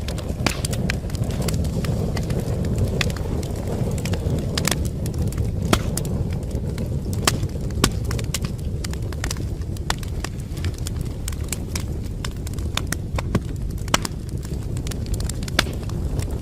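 Wood fire in a fireplace crackling, with irregular sharp pops and snaps over a steady low rumble of burning flames.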